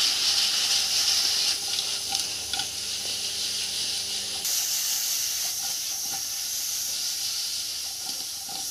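Onion, capsicum, tomato and paneer sizzling in hot oil in a non-stick kadai as they are stirred and tossed: a steady frying hiss with a few faint ticks.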